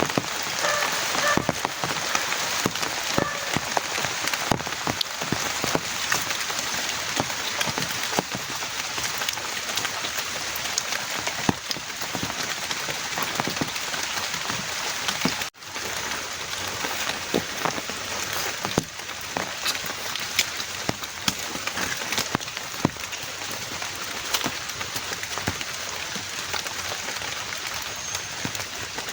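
Heavy rain falling steadily, with many separate drops striking close by. The sound cuts out for an instant about halfway through.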